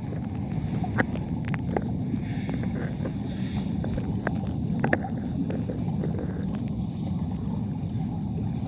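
Steady low rush of flowing water at the waterfall and stream, with a few faint clicks.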